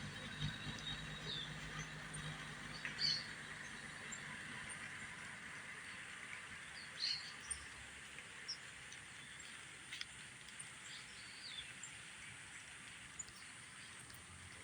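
Outdoor ambience of a steady soft hiss with a few short, high bird calls, the loudest about 3 s and 7 s in, and scattered clicks. A low hum sits under the first few seconds.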